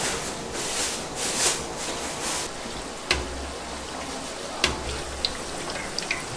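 Hot oil sizzling as yakgwa dough deep-fries, a steady hiss that swells in the first couple of seconds. A utensil knocks twice, about three and about four and a half seconds in, with a few small clicks near the end.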